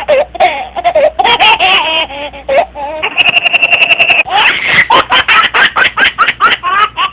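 Rapid, repeated bursts of laughter in quick even pulses. About three seconds in, a steady held tone breaks in for just over a second, then the laughter resumes.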